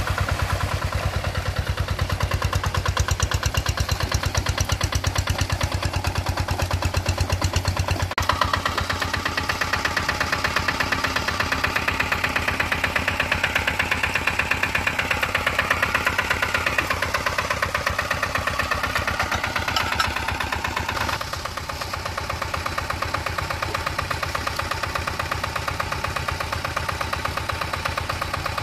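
Rice-paddy tractor engine running steadily with an even, rapid pulsing chug. A higher rushing sound joins in from about eight seconds in until about twenty-one seconds, when the engine note drops slightly.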